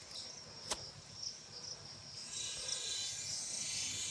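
Insects chirping in short repeated pulses, joined about two seconds in by a denser, higher buzzing chorus. A single sharp click just under a second in.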